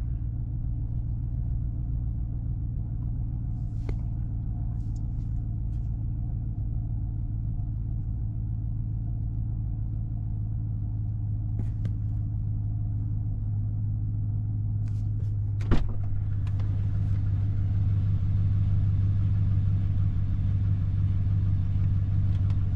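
Chevrolet Silverado V8 with an MBRP aftermarket exhaust idling steadily, still cold just after a cold start, heard from inside the cab as a low rumble. There are a few light clicks, and a sharper click about two-thirds of the way through, after which a steady hiss joins the idle.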